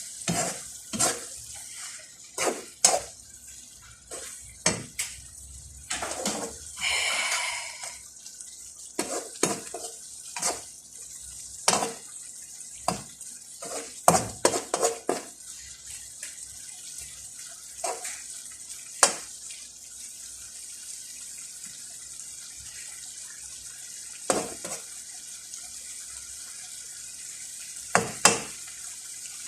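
A cooking utensil knocking and scraping against a frying pan at irregular intervals while fava beans and carrots fry, over a steady high sizzling hiss. About a quarter of the way in, a louder rushing noise lasts for roughly two seconds.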